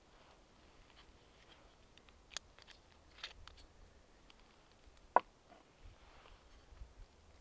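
Quiet, scattered small clicks and light rustles of something being handled, with one sharp click about five seconds in.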